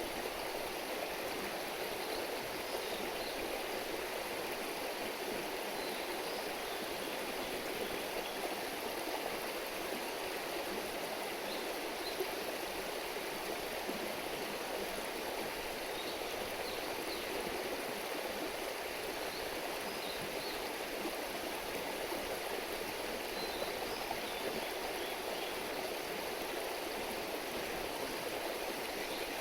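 Steady running water of a river stream, a constant rushing murmur, with faint short high chirps here and there.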